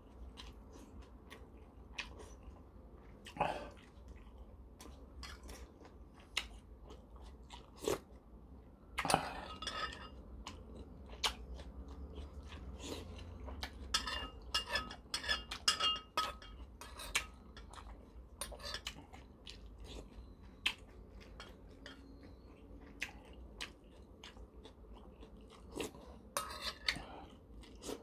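Close-up eating sounds: chewing and crunching food, with scattered short clicks and a metal spoon now and then clinking against a ceramic bowl.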